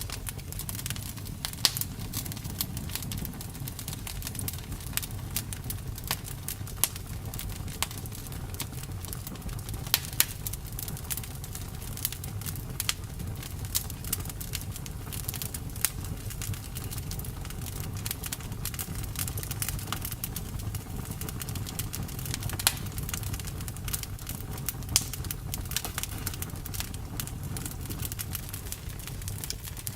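Campfire burning: a steady low rumble of flames with irregular crackles and pops of burning wood, a few louder snaps scattered through.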